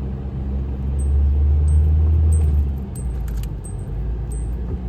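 Car on the move: a steady low engine and road rumble that swells between about one and three seconds in, with a faint tick repeating about every two-thirds of a second.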